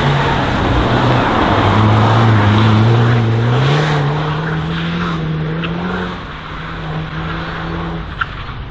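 Race car's engine running hard on a slalom course, its pitch climbing and dipping as it accelerates and lifts off. It is loudest two to three seconds in and gets quieter after about six seconds.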